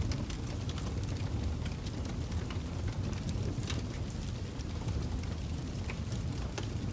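Campfire burning: a steady low rumble of flames with many sharp crackles and pops scattered irregularly through it.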